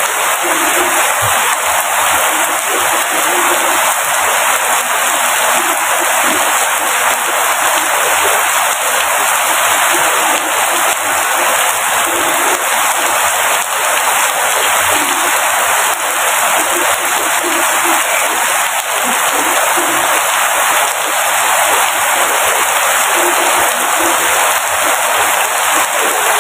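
Steady, heavy rain falling: a dense, even hiss with no letup.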